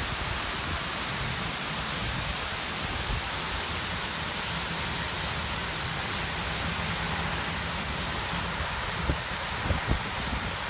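Heavy downpour falling in a steady, dense hiss, with gusty wind rumbling underneath. A few short low thumps come near the end.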